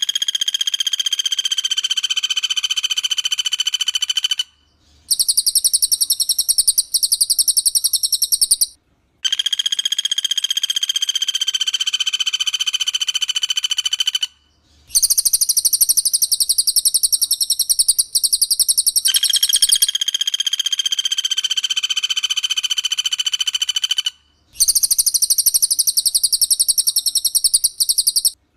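Recorded bird calls of a cililin and a pelatuk bawang woodpecker, played in turn. Each call is a rapid trill lasting about four seconds. The two kinds alternate with short gaps between them: one is a steady trill pitched around 3 kHz, the other is higher and thinner.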